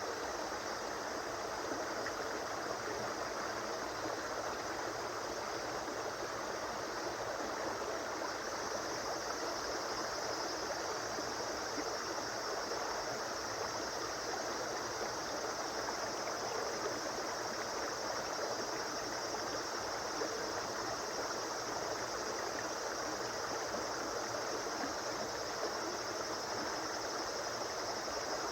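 A flowing river or stream: a steady, even rush of running water.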